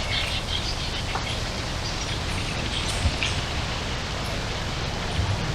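Steady rushing wind noise on the microphone, with a few faint bird chirps and one small click about three seconds in.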